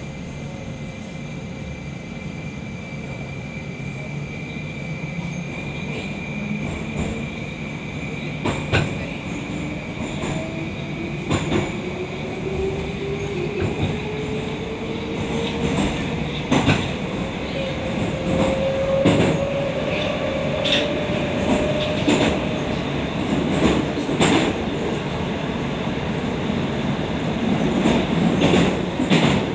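Moscow Metro 81-760/761 'Oka' subway train accelerating away from a station, heard from inside the car. Its traction drive whines in a tone that rises steadily in pitch, over a growing rumble of running gear. The wheels knock over rail joints with increasing frequency as speed builds.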